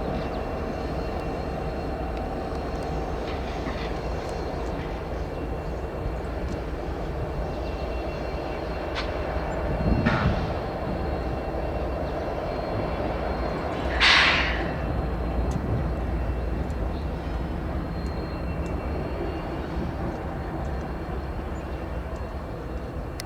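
Diesel freight locomotive running steadily, with a short burst about ten seconds in and a brief hiss about fourteen seconds in.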